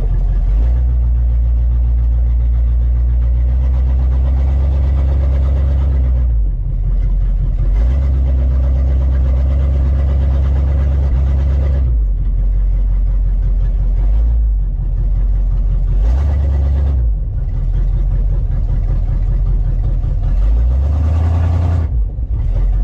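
1971 Chevelle wagon's engine running while the car is moved, its pitch rising and falling several times, then shut off at the very end. It is running without its accessory drive belt.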